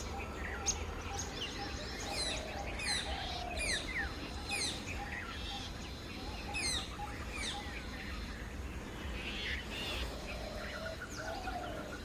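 Wild birds calling and chirping, with many short, quick downward-sweeping notes, most of them in the first half, over a steady background of other birdsong.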